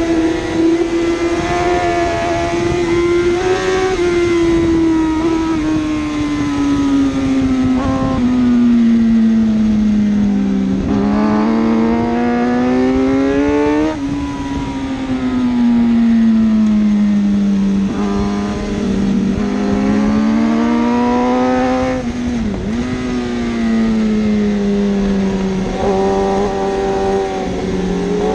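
A 1000cc superbike racing engine running hard at high revs. Its note slowly sinks and climbs again, several seconds each way, as the bike brakes and accelerates through the circuit, with a brief sharp dip a little past two-thirds of the way in.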